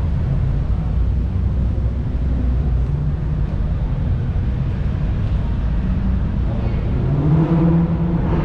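Car engine running with a steady low rumble, rising in pitch about seven seconds in as it accelerates.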